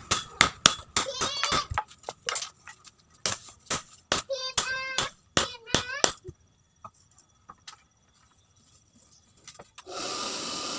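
Blacksmith's hammer striking steel from a chainsaw bar on an anvil, a run of ringing metal-on-metal blows about three to four a second, in bursts with short gaps, for about six seconds. Then only a few faint taps, and near the end a steady rushing noise starts.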